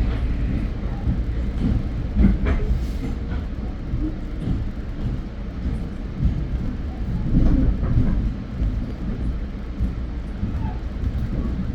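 Metro-North commuter train in motion, heard from inside the car: a steady low rumble, with a few sharp knocks from the wheels and car body.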